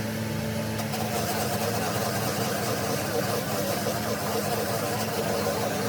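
A machine running steadily with an even, unbroken hum.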